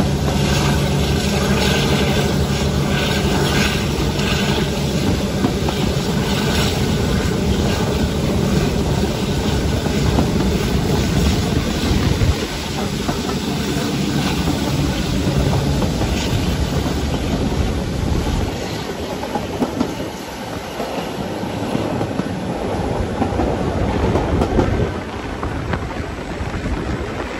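Passenger train running, heard from an open carriage window: wheels clattering rhythmically over the rail joints, with the low drone of a Class 52 diesel-hydraulic's twin Maybach engines under power. The engine drone fades about two-thirds of the way through, leaving mostly wheel and track noise.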